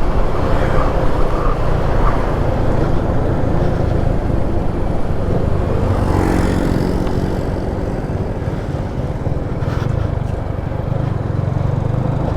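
Motorcycle engine running with a steady low hum.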